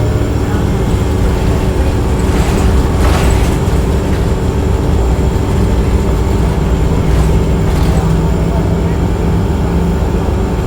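Inside a 2007 Orion VII transit bus on the move: the engine and HVAC system running with a steady hum and a thin steady whine. Two short hisses break in, one about two and a half seconds in and another about seven and a half seconds in.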